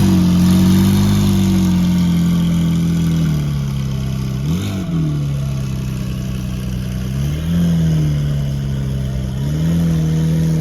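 Car engine running, its pitch holding steady, dropping about three seconds in, then blipping up and down quickly and rising again twice.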